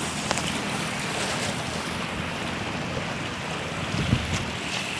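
Steady rush of floodwater with wind buffeting the microphone, and a single low thump about four seconds in.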